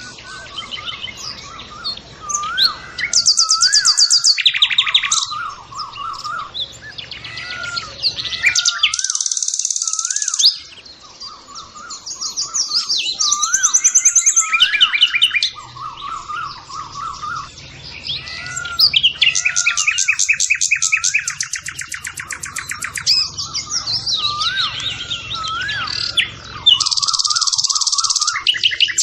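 Birdsong: several birds chirping and trilling, with fast high trills that come and go every few seconds over a short whistled call repeating about once a second.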